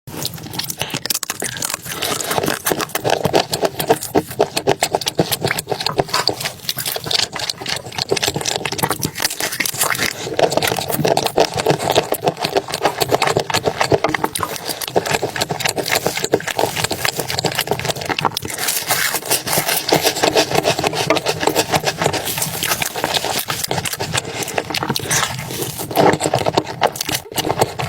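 Close-miked eating sounds: dense, rapid wet clicks and crackles of chewing and mouth noise, with no pauses.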